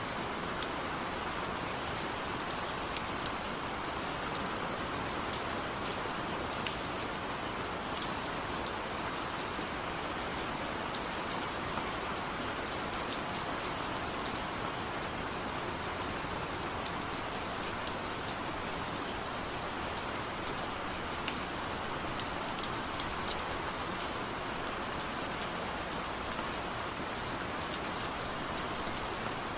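Steady rain falling, an even hiss with scattered sharp drop hits standing out above it.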